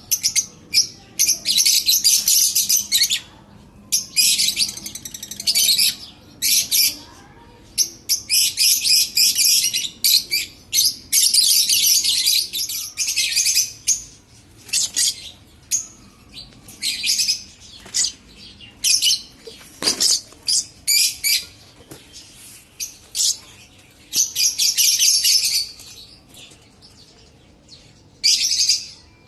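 Lovebirds chattering: rapid, high-pitched chirping in dense runs of one to three seconds with short pauses between.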